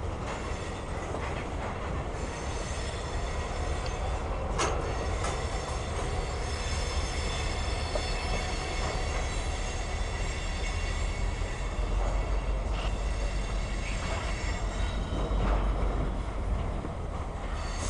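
Mixed freight cars rolling past: a steady low rumble of wheels on rail, with high-pitched wheel squeal through most of the passage and a few sharp clanks.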